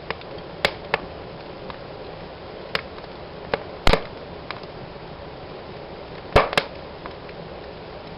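Wood fire burning in a fireplace: a steady soft hiss with irregular crackles and sharp pops, two louder pops at about four and six and a half seconds in.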